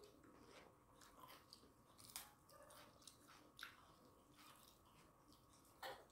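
Faint chewing and wet mouth sounds of people eating rice and chicken curry by hand, with scattered short smacks and clicks.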